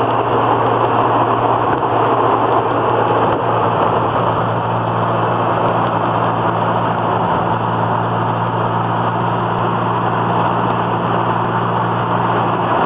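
Twin-turbo Datsun Z-car engine running at a steady speed: a constant low hum under an even rushing noise, with no change in pitch.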